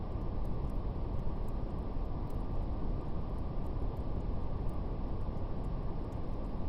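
Steady brown noise, a deep, even rushing hiss, with faint, irregular crackles of a wood fire.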